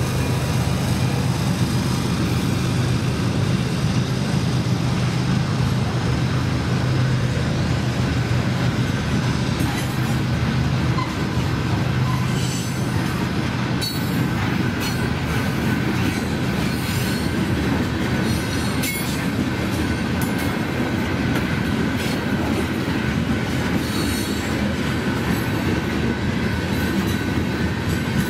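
Freight train cars rolling past, wheels clicking over the rail joints with some wheel squeal. A low locomotive hum in the first part fades about a third of the way through.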